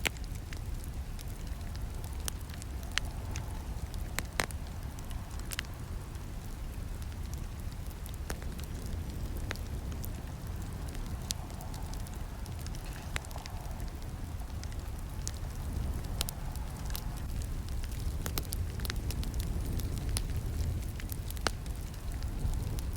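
Wood campfire burning: a steady low rumble of flames with scattered sharp crackles and pops at irregular intervals.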